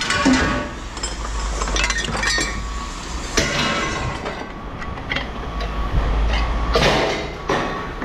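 Pieces of scrap aluminum extrusion clanking and clinking against other metal as they are tossed and sorted, in irregular strikes, over a steady low rumble.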